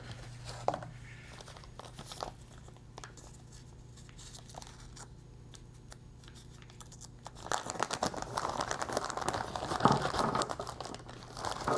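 Plastic packaging being handled and opened by hand: a few light clicks and rustles at first, then busy crinkling and tearing of the wrapper from about seven seconds in.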